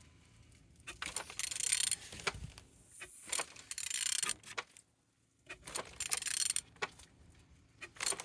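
A used engine being turned over by hand with a wrench, metallic clicking and rattling in three spells of about a second each. The engine turns freely.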